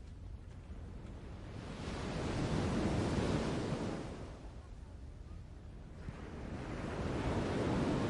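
Sea waves surging and washing on a shore, in two slow swells that build and fade, the second arriving about five seconds after the first.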